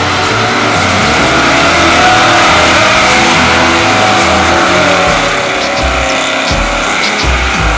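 A car's engine running hard with tyre squeal, mixed with loud rock music whose drum beat becomes clear in the second half.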